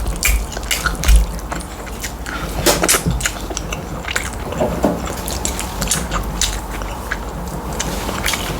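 Close-miked eating sounds: irregular wet mouth clicks and chewing as tilapia fish in light soup with starch is eaten.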